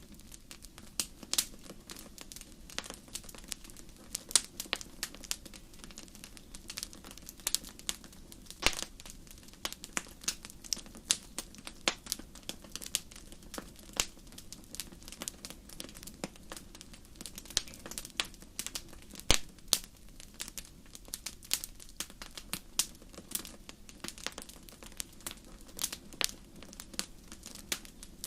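Wood fire in a fireplace crackling: irregular sharp pops and snaps, several a second, over a steady low hiss.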